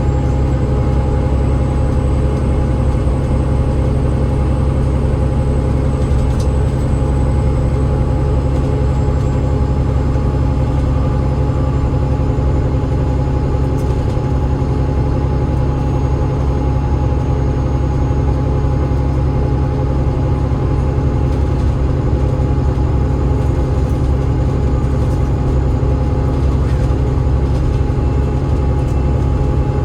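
Alexander Dennis Enviro500 MMC double-decker bus's Cummins ISL8.9 diesel and ZF EcoLife automatic gearbox running steadily, heard from inside the bus: a loud, even low drone with a thin steady whine above it.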